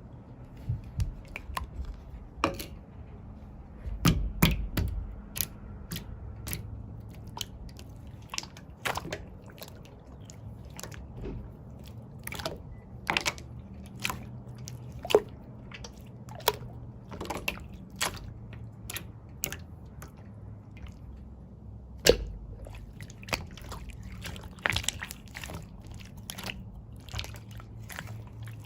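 Cloud slime being stretched and squished by hand, giving irregular sticky clicks and crackles, with louder pops about four seconds in and again near 22 seconds.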